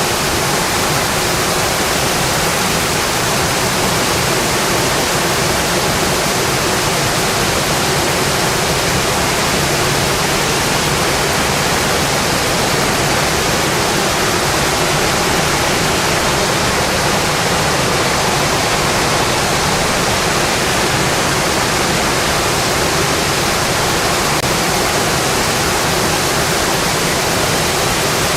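Steady heavy rain on a metal roof, a dense, unbroken hiss.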